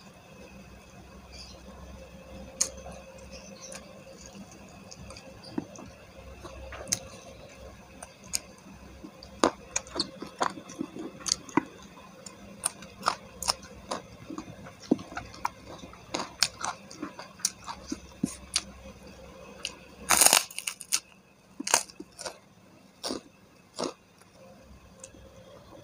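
Close-up chewing and crunching of crispy fried chicken and raw vegetables such as raw long bean. It comes as a run of sharp, short crunches and mouth clicks, with one louder, longer crackle about twenty seconds in.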